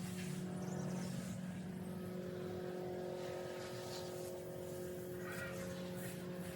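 A motor vehicle's engine running with a steady, even hum.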